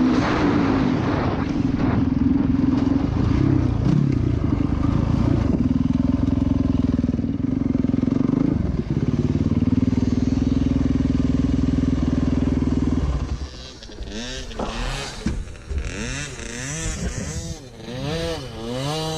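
Dirt bike engine running loudly at a fairly steady pitch, then dropping away about thirteen seconds in to a quieter engine whose pitch rises and falls about once a second as the rider opens and closes the throttle.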